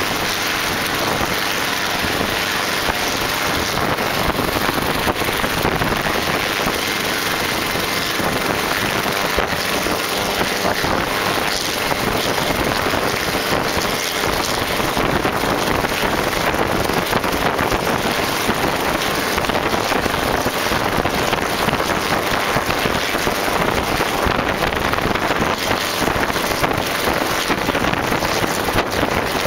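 Helicopter running loud and steady: a dense, even rushing noise with no clear rise or fall in pitch.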